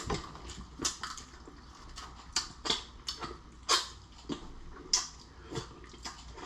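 Wet eating noises: irregular smacking, sucking and slurping of a mouth eating sauced shrimp and lobster, with short sharp clicks and snaps scattered through.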